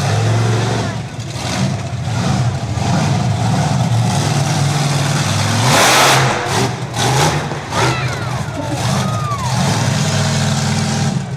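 Monster truck engine running and revving, its pitch rising and falling, with a loud rushing burst about six seconds in.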